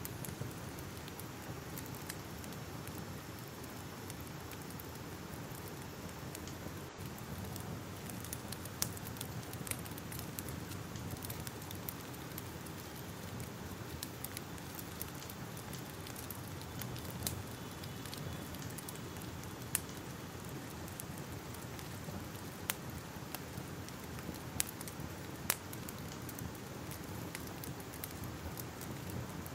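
Fire crackling: a steady low rushing noise with scattered sharp pops.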